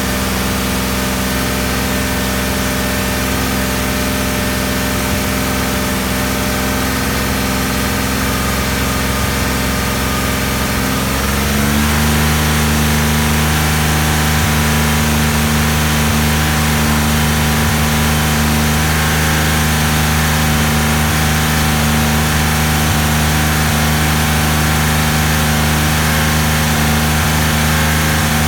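1988 Porsche 959's twin-turbocharged flat-six idling steadily as it warms up to operating temperature. About eleven seconds in, the idle speed steps up a little and then holds steady, a bit louder.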